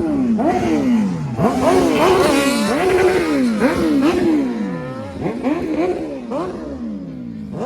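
Vehicle engines revved hard over and over, the pitch climbing and falling about once or twice a second, with more than one engine going at once; the revving eases a little after about five seconds.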